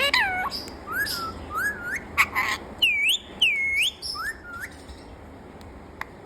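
A pet parrot whistling a string of short sliding notes, with two louder, longer dipping whistles about three seconds in, then falling quieter in the last second and a half.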